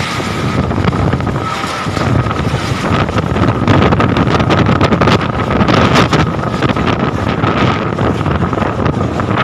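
Strong wind blowing in gusts and buffeting the microphone with rough crackling, growing louder a few seconds in. A faint steady high tone runs under the wind throughout.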